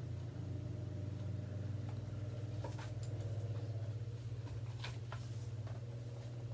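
A steady low hum, with a few faint clicks and paper rustles from a picture book being handled, about three and five seconds in.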